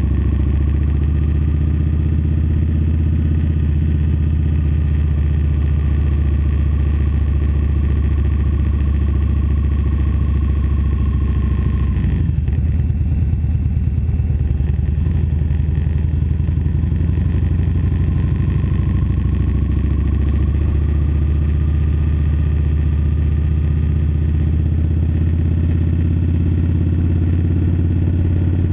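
Victory Vegas 8-Ball's V-twin engine running steadily as the motorcycle cruises at low speed. The engine note changes briefly about twelve seconds in, then steadies again.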